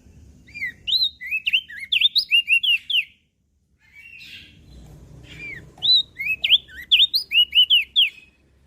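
Crested white-eye (opior jambul) singing two rapid songs of quick, high, slurred chirping notes, each about two and a half seconds long, with a short pause between them.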